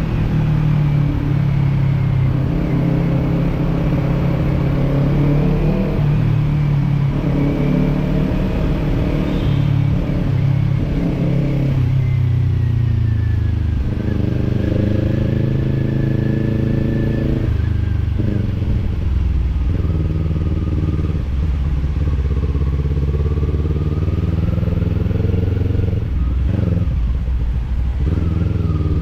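Kawasaki parallel-twin motorcycle engine with a slip-on exhaust, heard while riding: the engine note rises and drops several times with throttle and gear changes.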